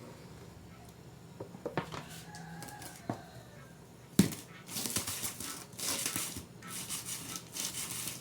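A few light clicks and a loud knock about four seconds in, then repeated scraping strokes: a utensil scraping cake batter out of a mixing bowl into the baking pan.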